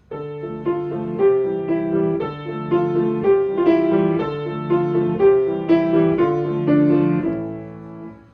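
Piano playing a steady walking-pace tune, about two beats a second over a repeating low accompaniment. Near the end the notes die away and the music stops: the cue for walkers to halt.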